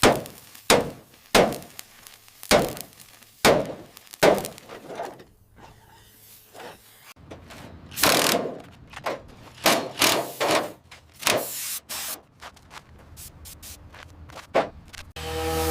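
Hand tools knocking and striking repeatedly, roughly one blow a second at first, then a quieter stretch before another quicker run of knocks.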